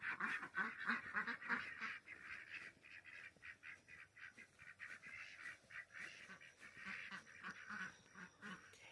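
A flock of farm ducks and geese calling: many short, overlapping calls, loudest in the first two seconds, then fainter.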